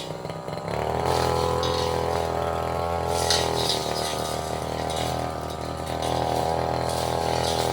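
Tasco 33 Pro brush cutter's two-stroke engine ticking over, then revved up under throttle within the first second and held at high speed, easing slightly around the middle before rising again. A few short sharp hits sound around three seconds in as the cutting head meets wood.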